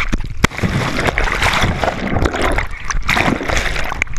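Water rushing and splashing loudly in irregular surges, as on a water-park slide ride, with a low rumble underneath.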